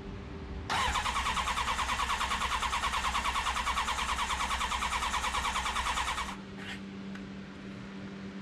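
Electric starter cranking the 1988 Honda CBR1000F Hurricane's inline-four engine, an even, fast pulsing churn that does not catch, with fuel poured into the freshly refitted carburetors; it stops about six seconds in.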